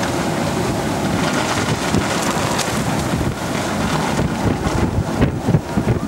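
Blizzard wind blowing hard and gusting, buffeting the microphone with a loud, uneven low rumble over a steady rush of noise.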